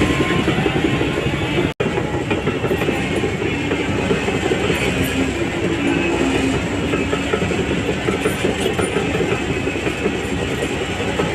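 Shantui DH17C3 crawler bulldozer working: diesel engine running under load with its steel tracks clattering steadily. There is a brief break in the sound about two seconds in.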